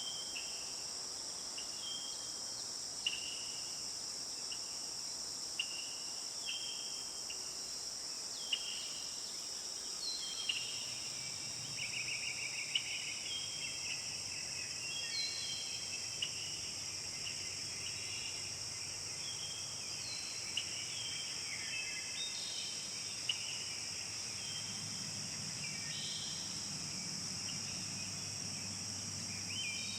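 A steady, high-pitched chorus of crickets and other insects, with small birds chirping in short repeated notes over it, busier after about ten seconds.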